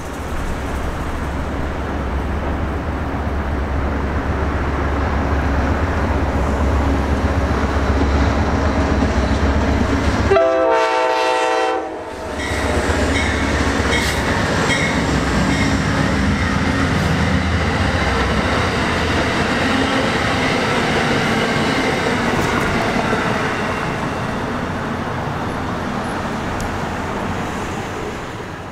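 Amtrak GE P42DC diesel-electric locomotive passing under power with a steady low engine drone. About ten seconds in it sounds its horn in one blast of about a second and a half. After that comes the rumble and wheel clatter of the passenger cars going by, slowly fading.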